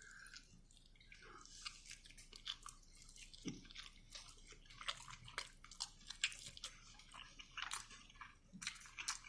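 Close-up chewing of sauced chicken wings: a faint, steady run of short wet clicks and crunches, a few each second.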